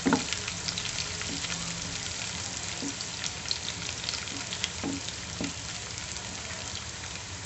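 Chopped garlic, green chillies and sliced ginger sizzling and crackling steadily in hot oil in a kadhai, with a few short scrapes and knocks of a wooden spatula stirring them.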